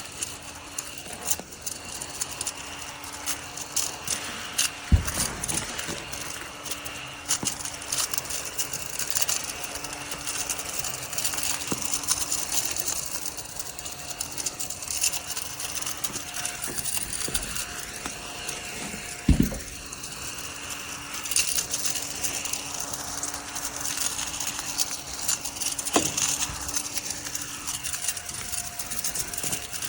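Mini cordless desktop vacuum cleaner running with a steady hum while its bristles rattle over a surface. The hum cuts out briefly about two-thirds of the way through, and there are a few sharp knocks.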